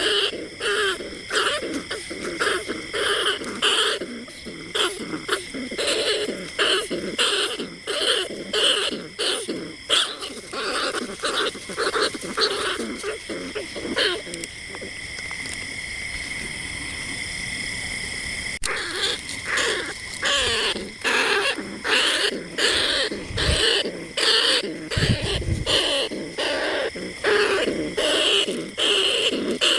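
Rat calls played as a lure for bandicoot rats and rice-field rats: short squeaking calls repeated rapidly, several a second. Midway they stop for about four seconds, leaving a steady high tone and hiss, then start again abruptly.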